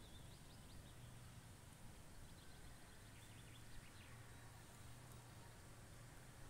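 Near silence, with a few faint, short bird chirps about two and a half to four seconds in.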